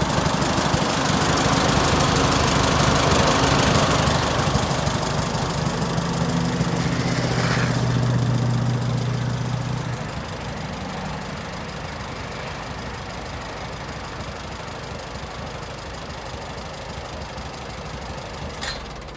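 Allis-Chalmers WD-45 tractor's four-cylinder engine running, louder with shifting pitch for about the first ten seconds, then settling to a quieter steady run. A single sharp click near the end.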